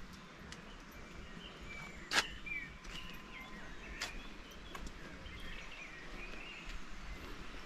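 Small birds chirping in short calls over steady outdoor background noise, with a sharp click about two seconds in and a fainter one about four seconds in.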